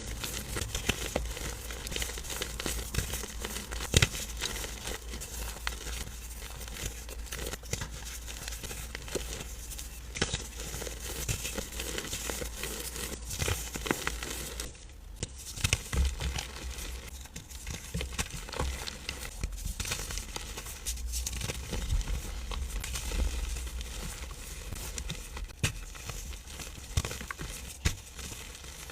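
Compressed powder blocks, iron oxide and cornstarch, being crushed: a dense, continuous run of soft crunches and crumbling crackles. There is a short break about 15 seconds in.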